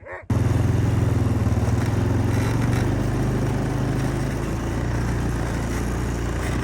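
ATV (quad) engine running steadily under way, plowing through fresh snow; it comes in suddenly a moment after the start.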